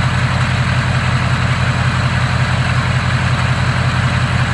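Ford Power Stroke V8 turbo-diesel engine in an F250 idling steadily, with an even fast pulse.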